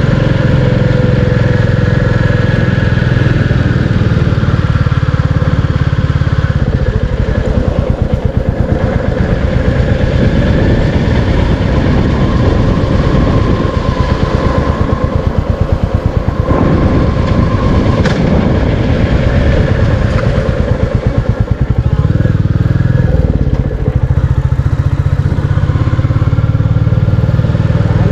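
Royal Enfield Classic 350's single-cylinder engine running under way, its individual firing pulses plainly audible. The engine speed rises and falls several times.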